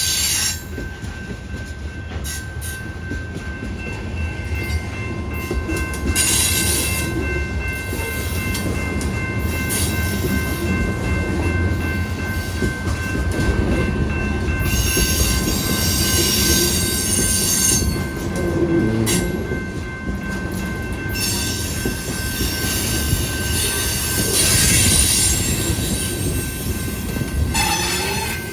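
Train rolling by with a continuous low rumble and steady high-pitched wheel squeal, joined by bouts of hissing, grinding rail noise.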